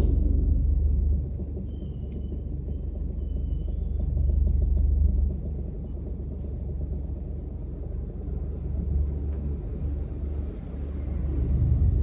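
Strong wind buffeting the microphone: a low rumble that swells and eases every few seconds.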